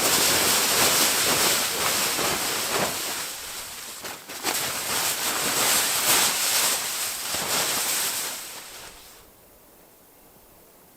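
Tarp being shaken and pushed to shed a heavy load of ice and snow: a long hissing, crackling rustle in two bouts of about four seconds each, stopping about nine seconds in.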